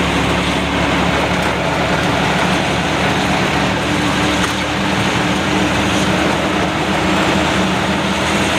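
Loaded goods truck on the move: a steady, even engine hum under a loud rushing noise, holding the same pitch throughout.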